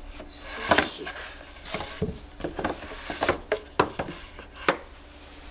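Irregular series of short knocks and clicks, about a dozen over several seconds, like hard objects being handled or knocked against wood, over a low steady hum.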